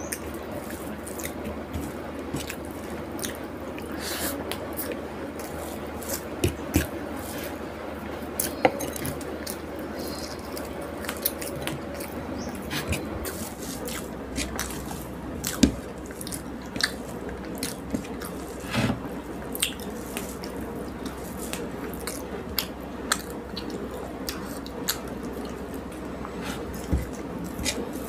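Eating sounds: irregular wet clicks and smacks of chewing a meal of rice and fish curry, over a steady low background hum.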